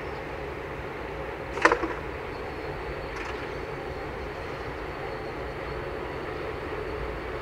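JR 381 series electric train moving slowly, with a steady running rumble. There is a single sharp clack about one and a half seconds in.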